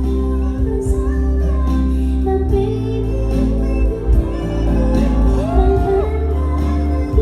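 Live pop performance through a loud PA: a female singer holding long notes over band accompaniment with a heavy bass, with a sliding vocal run about five seconds in.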